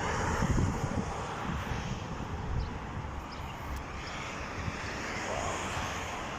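Steady outdoor rushing noise, with low gusts of wind buffeting the microphone in the first second or so.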